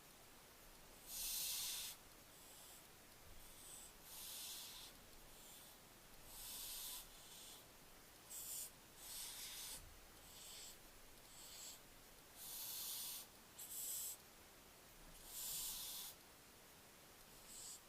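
Barn owlet giving repeated drawn-out hisses, each about half a second to a second long and coming every one to three seconds, the young barn owl's food-begging call.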